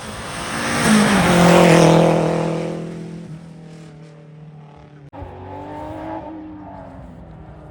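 Historic rally car passing at speed on a closed stage: the engine grows loud, is loudest a second or two in, then fades away. About five seconds in the sound breaks off abruptly and a quieter engine is heard rising in pitch.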